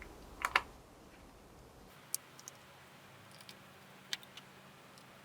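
Scattered light clicks and taps of hard plastic and small tools being handled while a laptop's display assembly is worked on, a pair about half a second in and then single clicks every second or so.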